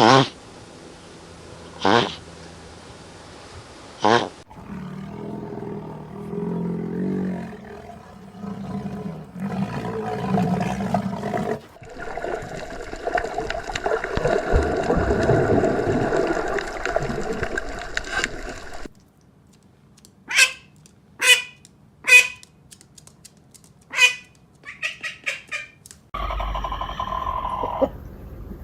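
A run of different animal sounds. It opens with three short dog barks about two seconds apart, then a long, loud roar-like call, then a quick series of short, sharp calls.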